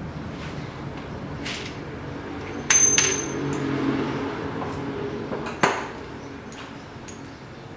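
Metal tools and parts clinking during work on a motorcycle starter: a sharp clink with a short high ring almost three seconds in, another just after, and a third a little before six seconds, over a low steady hum.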